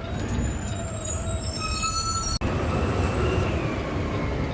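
Garbage truck running with a steady low engine rumble, with several high thin squeals around one and a half to two and a half seconds in. The sound cuts out for an instant about halfway.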